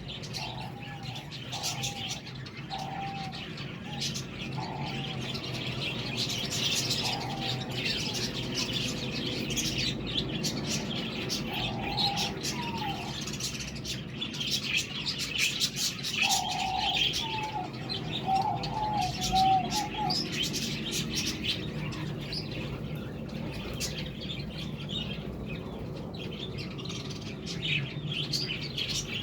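A flock of budgerigars chattering and chirping, with dense rapid high chirps throughout and runs of lower warbled notes in several groups, the longest around the middle.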